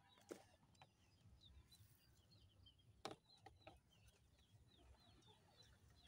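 Faint, high bird chirps: many short notes, each dropping slightly in pitch. A few soft knocks come through, with one sharper click about three seconds in.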